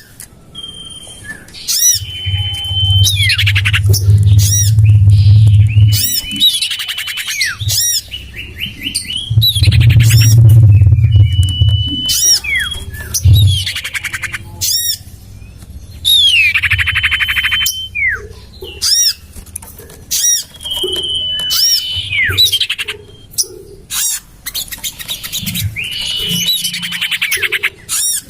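Common iora (cipoh) calls played as a bird-trapping lure: repeated sweeping chattering calls, each often ending in a short, thin, steady whistle. A low rumble rises under the calls twice early on.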